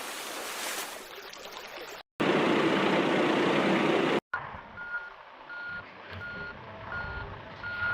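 Two stretches of loud steady noise, each ending in a sudden cut, then a vehicle reversing beeper sounding a steady, evenly spaced beep, roughly three beeps every two seconds.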